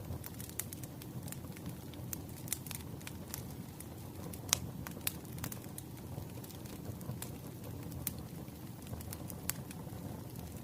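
Wood fire burning: firewood logs crackling with irregular sharp pops over a low, steady rumble of flame. The loudest pop comes about halfway through.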